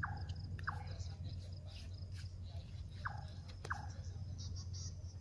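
Night ambience of insects chirring in a steady high pulse, over a low steady hum. A short call that drops sharply in pitch sounds about four times, mostly in pairs, with a few light clicks of handling between.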